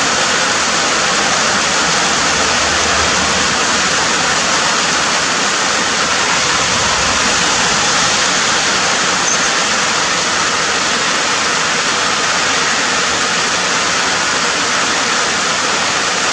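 Steady heavy rainfall, a loud unbroken hiss of rain with no single drops standing out.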